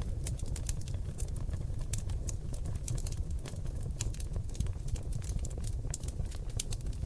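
Seasoned oak logs burning in a fireplace: a steady low rumble of flame with quick, irregular crackles and pops, several a second.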